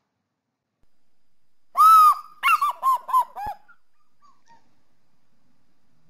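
Eagle calling: one long high-pitched note about two seconds in, followed by a quick string of about five short falling notes, over a faint recording hiss. Another long call begins near the end.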